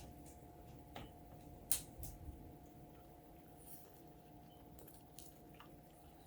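Faint chewing of a bite of breakfast empanada, with a few soft wet mouth clicks about one and two seconds in, over a faint steady hum.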